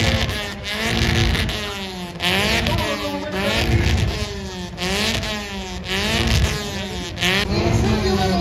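Drift car's engine revved hard over and over, its pitch sweeping up and falling back about once a second, over a steady hiss.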